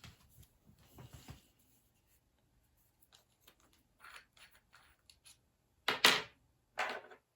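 Small handling noises: light rustling, scraping and clicks, then two louder short scrapes near the end.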